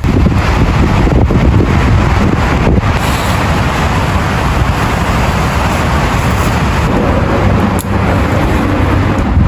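Heavy rain and strong wind in one loud, steady rush of noise, with gusts buffeting the microphone.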